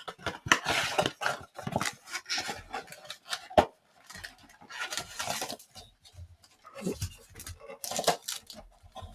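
Cardboard trading-card blaster box being opened and its wrapped packs taken out: spells of rustling and crinkling with scattered taps and one sharp click a few seconds in.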